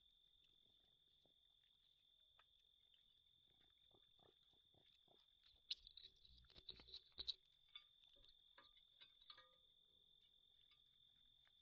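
Raccoons rummaging at a bird feeder: a cluster of soft clicks, knocks and scrapes about halfway through, over a faint steady high-pitched tone.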